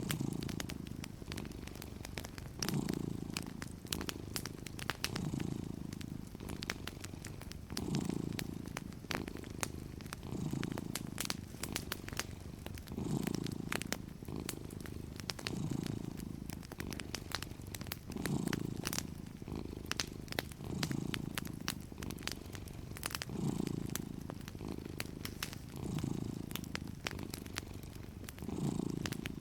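A cat purring, the purr swelling and easing with each breath about every two and a half seconds, over frequent small crackles from a wood fire.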